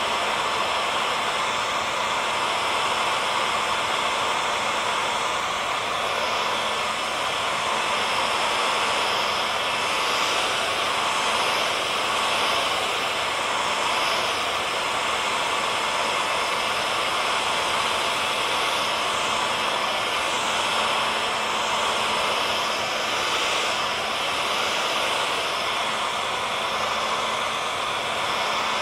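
Hair dryer running steadily: an even rush of blown air with a faint constant motor hum underneath.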